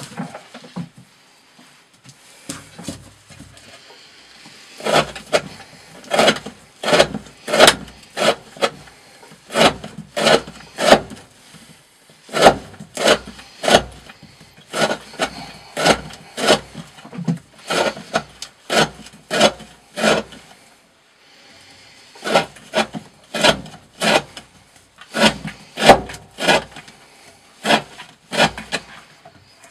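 Knife with a D2 steel blade slicing through thick rope again and again, a little more than one cut a second, with a couple of short pauses. This is a rope-cutting edge-retention test.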